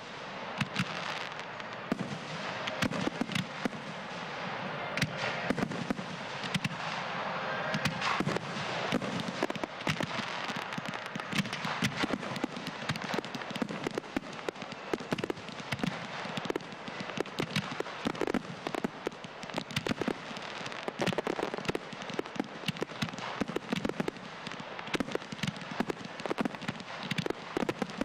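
Frontal multi-shot firework firing: a dense, unbroken string of shots and bursting pops, many a second, with no pause.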